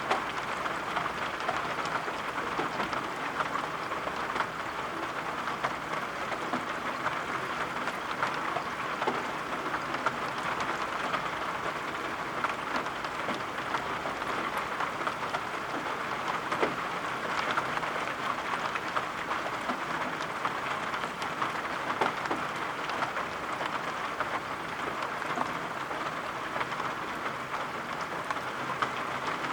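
Steady rain falling and pattering on surfaces, a dense even hiss scattered with small drop ticks.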